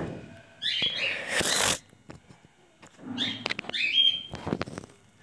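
Small birds chirping in two short bursts of quick twittering calls, with a brief rushing noise about a second and a half in.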